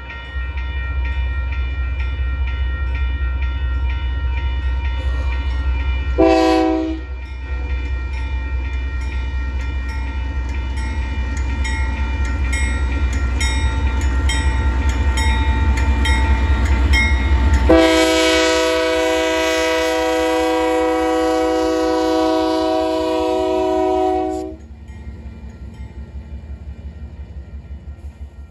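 Union Pacific diesel freight locomotives approaching with a low rumble, sounding a short multi-note air horn blast about six seconds in and then a long horn blast as they pass. After the horn stops, the loaded covered hopper cars roll by with a quieter, steady clicking of wheels over the rail joints.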